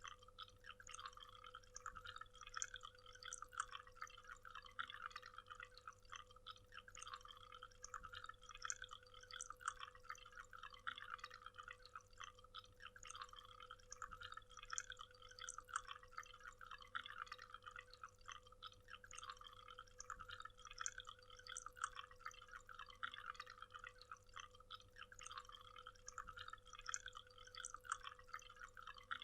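Waterfall: water falling and splashing in a dense, continuous patter of small drips and splashes, with a faint steady hum underneath.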